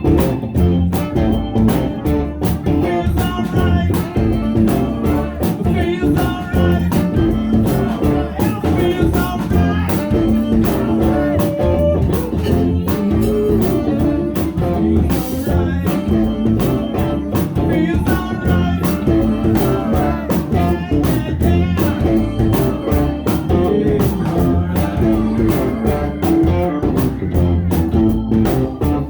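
A band playing a blues song: guitar over a steady drum beat, with singing.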